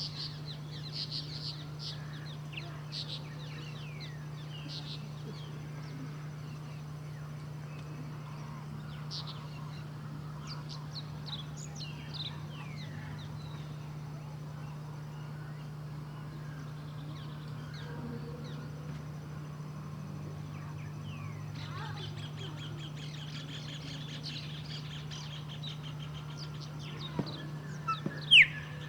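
Chopi blackbirds calling and singing: scattered short chirps and whistles, a fast trill from about two-thirds of the way in, and loud sharp calls near the end, over a steady low hum.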